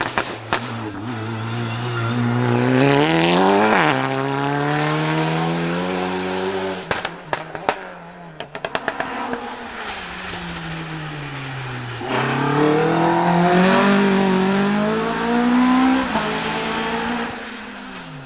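Hillclimb race car engine under hard acceleration: the revs climb and drop sharply about four seconds in, and a rapid string of sharp exhaust pops and crackles follows a few seconds later. The engine then pulls hard up the revs again and fades away near the end.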